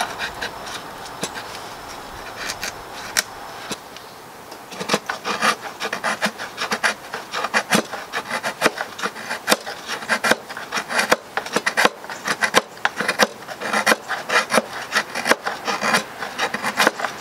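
Steel knife blade scraping fine shavings from resinous pallet wood, a run of short rasping strokes several times a second that grows busier about five seconds in.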